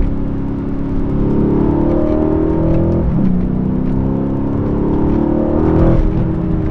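Mercedes-AMG C63 S 4.0-litre twin-turbo V8 pulling hard under acceleration, heard from inside the cabin: the engine note climbs steadily, drops sharply at an upshift of the nine-speed automatic about three seconds in, climbs again and drops at a second upshift near the end.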